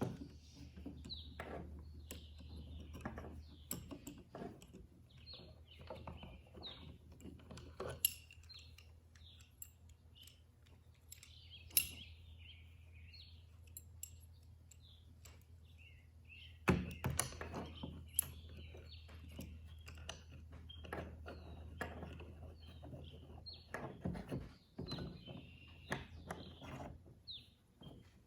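Clamps being fitted and tightened on a wooden board: scattered clicks, knocks and light clatter, with a sharper knock about 8, 12 and 17 seconds in.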